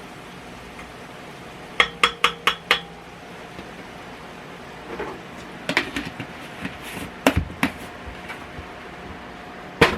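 A spoon tapped five times in quick succession against the rim of an electric cooking pot, each tap ringing briefly. Scattered clinks and knocks of utensils and seasoning containers follow, with a sharp knock near the end.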